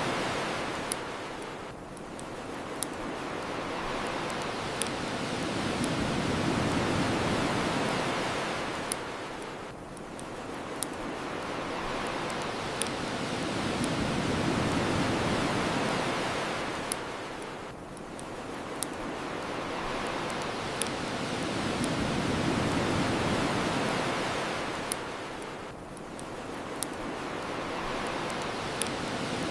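Ocean waves washing onto the shore in slow swells about every eight seconds, with the sharp pops and crackles of a wood bonfire scattered throughout.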